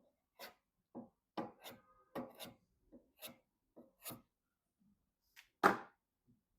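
Hands handling PC components during assembly: a run of short rubs, scrapes and light clicks, with one louder knock near the end.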